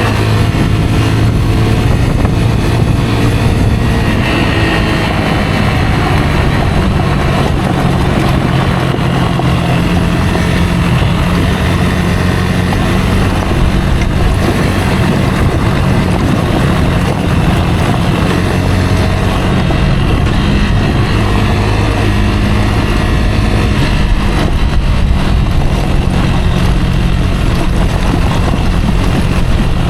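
Rieju Aventura 125 motorcycle's single-cylinder four-stroke engine running while riding, its pitch shifting up and down with the throttle, over a steady rushing noise.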